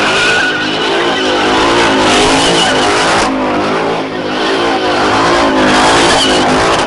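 Car engine held at high revs with tires squealing, as in a burnout; the revs waver up and down and the squeal eases briefly about three seconds in.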